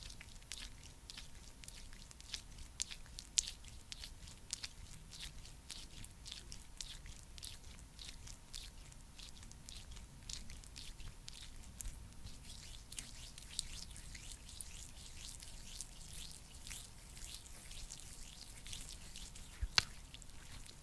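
Close-miked sticky, wet crackling and soft clicking of a thick skincare product being worked, many tiny pops in a steady stream, with one sharper click near the end.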